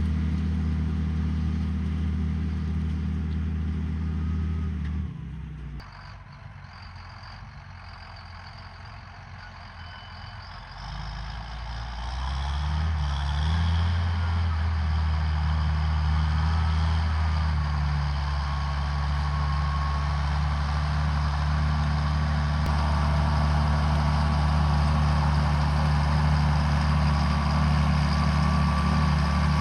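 John Deere 7800 tractor's six-cylinder diesel engine running under load while pulling a disc harrow. The sound falls away abruptly about five seconds in, then swells back around twelve seconds with the engine pitch rising, and runs steady and loud from there.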